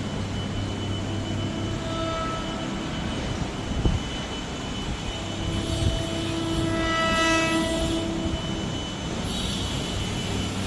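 Maeklong line train at the halt, with steady rumbling running noise and its horn sounding: a faint short blast about two seconds in, then a longer, louder blast of about three seconds around the middle.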